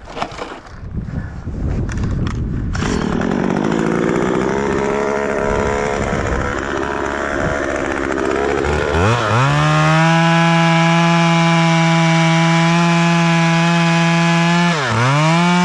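A few knocks, then a two-stroke chainsaw running unevenly at part throttle. About nine seconds in it revs up to a steady, high-pitched full throttle, drops off sharply near the end and revs straight back up.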